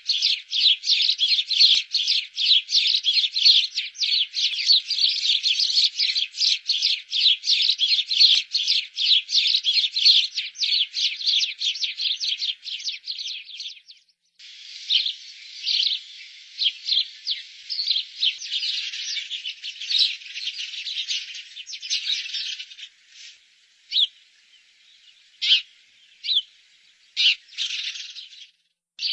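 Birds chirping in quick high-pitched runs, densely for about fourteen seconds, then after a short break thinning to scattered single chirps.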